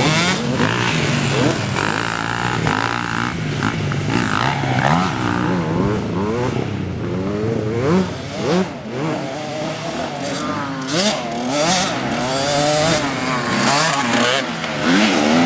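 Several motocross bikes' engines revving up and falling back, overlapping, with the pitch rising and dropping every second or two as they ride the track.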